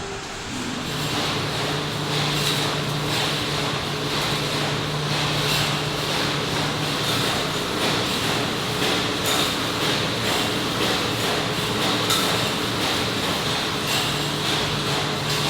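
Factory machinery running with a steady hum that sets in about a second in, with irregular metallic clanks and knocks throughout.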